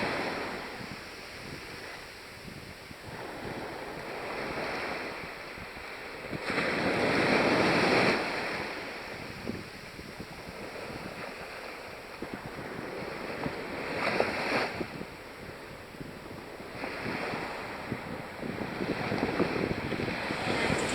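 Small waves washing onto a shallow sandy beach in an uneven rise and fall, with one louder wash about seven seconds in. Wind is buffeting the microphone.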